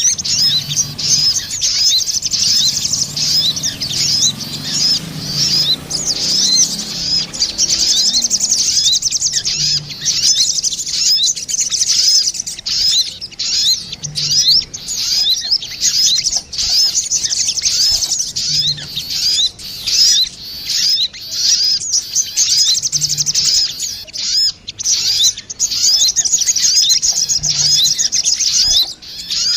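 Sogon birds, female and male, calling back and forth in a bird-lure recording: a dense, unbroken run of fast, high chirping notes.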